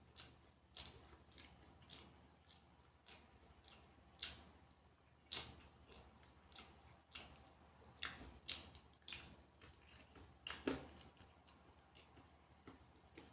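A person chewing crunchy raw vegetables (lalapan) close to the microphone: faint, irregular crisp crunches, with one louder crunch near the end.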